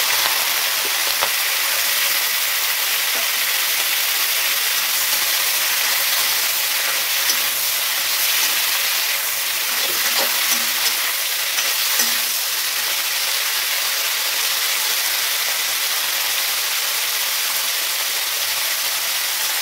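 Salt-and-turmeric-coated prawns frying in hot oil in a pan: a steady, loud sizzle, with a few brief crackles near the middle.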